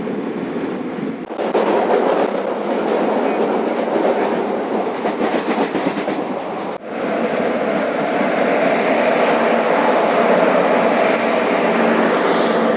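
Express passenger train running on the rails: a steady rumble and rush of wheel and track noise with a run of wheel clatter over rail joints. The noise breaks off sharply for an instant about seven seconds in.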